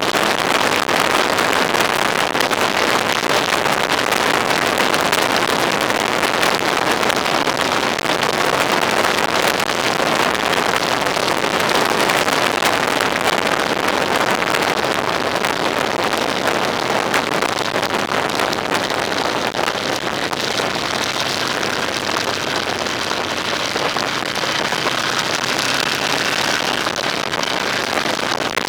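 Steady rushing road and wind noise from a vehicle driving along, with wind buffeting the microphone; the hiss grows a little brighter after about 20 seconds.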